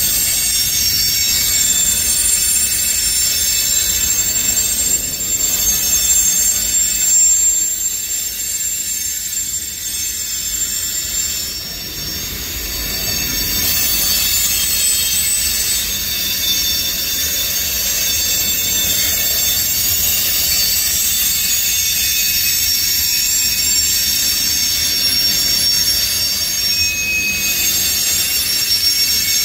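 Freight cars of a CSX manifest train rolling slowly past with a continuous high squeal of several held tones over a low rumble of wheels on rail. The squeal is the sound of brakes dragging on the wheels, which the uploader takes for brakes left on.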